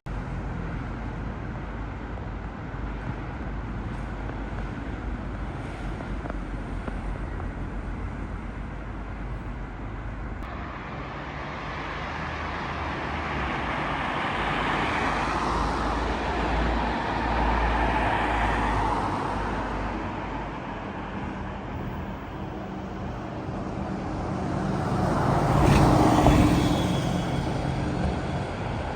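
Road traffic on a town street: a steady engine rumble with vehicles passing, the loudest passing close by near the end.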